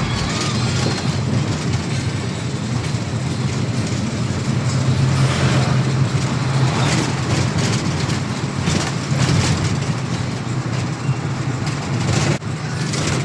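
Truck engine running and road noise heard inside the cab while driving: a steady low hum under a rushing noise, broken by a sudden short drop near the end.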